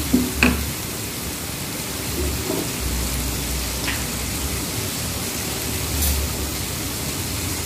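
Blended spice paste sizzling as it fries in oil in a wok: a steady hiss, with a light knock or two of the spatula against the pan near the start.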